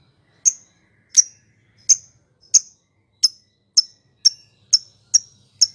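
Lovebird ngekek: a string of sharp, high chirps, about ten of them, coming faster toward the end.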